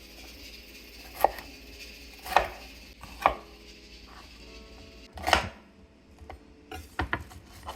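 Kitchen knife chopping vegetables: single sharp cuts spaced about a second apart, then a quicker run of several cuts near the end.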